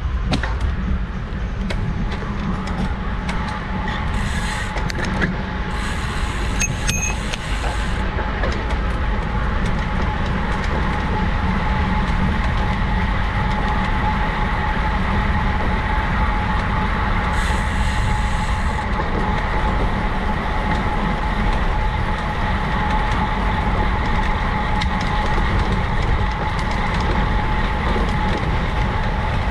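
Welsh Highland Railway narrow-gauge train running steadily along the line: a continuous rumble of wheels on rail with a steady whine, and three short hisses.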